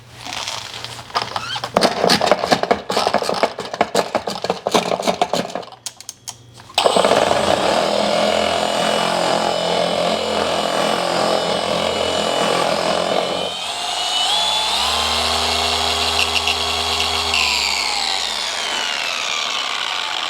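Rapid rattling for about the first six seconds. Then an electric machine polisher runs steadily; its motor pitch rises about two-thirds of the way through, holds, and drops again near the end.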